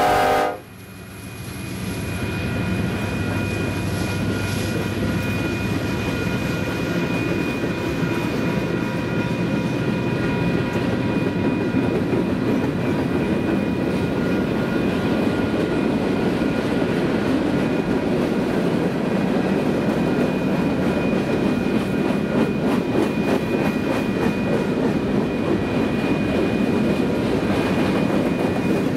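Freight cars of a Union Pacific train (covered hoppers and tank cars) rolling past steadily with clattering wheels on the rail. The locomotive's horn cuts off about half a second in, and the rolling noise builds over the first two seconds.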